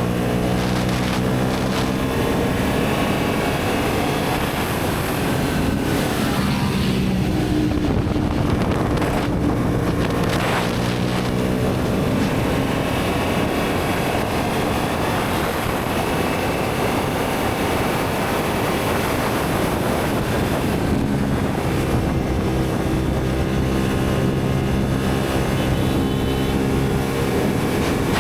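Motorcycle engine running at a steady speed, with wind rushing over the microphone. The engine's steady hum stands out in the first couple of seconds and again from about two-thirds of the way through; in between it is mostly wind and road noise.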